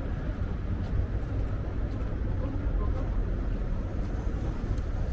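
Strong wind buffeting the microphone in a steady low rumble, over general street and traffic noise.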